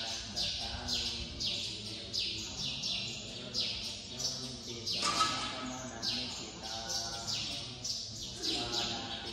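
A bird chirping in a fast, steady series of short, falling calls, about three a second, over low, steady voices.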